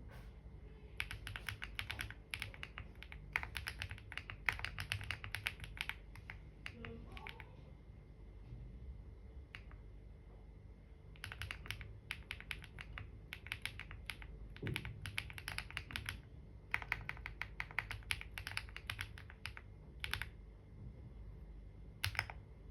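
Computer keyboard typing in quick bursts of keystrokes, with a pause of several seconds in the middle.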